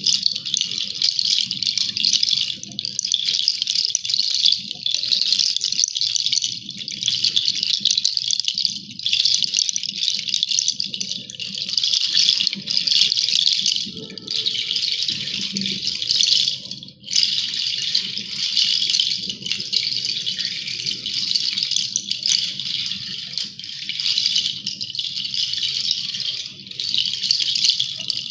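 Nature ambience: a steady, dense, high-pitched rattling hiss with a fainter low rumble beneath it. It dips briefly about seventeen seconds in.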